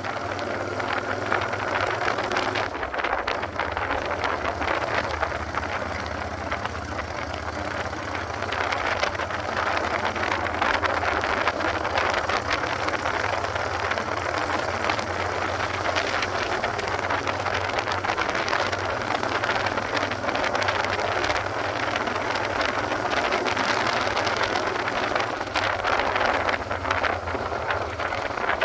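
Honda Shadow 600 chopper's V-twin engine running steadily while riding, with a broad rushing noise over the engine note. It grows a little louder about eight seconds in.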